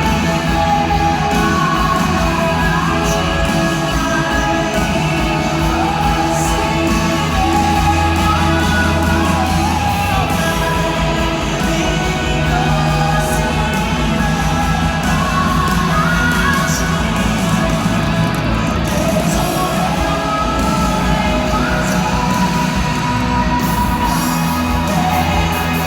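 Live worship band music with singing: a slow song carried by sustained keys or guitar and steady bass, with vocal lines weaving over it.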